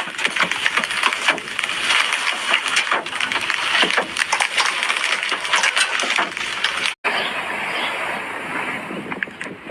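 Turbulent floodwater rushing and splashing, a dense crackling wash of water noise. About seven seconds in it cuts off abruptly, and a similar rushing continues in another clip.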